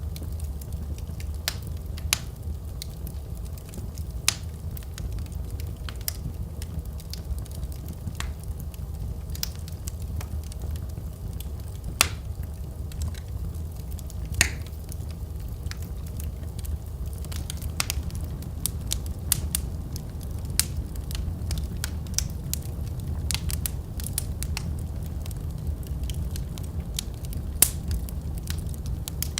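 Wood fire in a fireplace crackling: irregular sharp pops and snaps over a steady low rumble of burning, with a few louder pops now and then.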